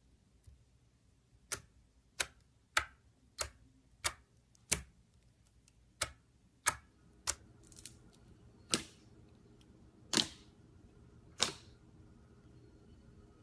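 A series of about a dozen sharp clicks at an uneven pace, roughly one every half second to a second, a few with a short ringing tail.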